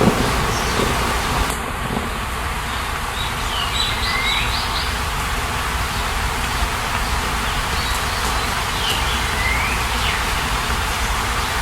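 Nature ambience: a steady, even rushing noise, with a few short bird chirps, one after another, about three to five seconds in and again about nine seconds in.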